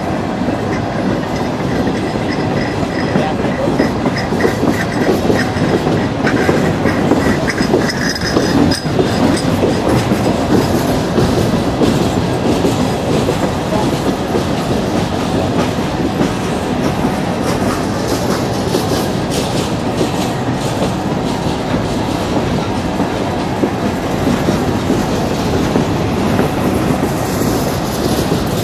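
Loaded CSX coal hopper cars rolling past on jointed track: a steady rumble of steel wheels on rail with repeated clickety-clack. A faint high squeal is heard over the first several seconds.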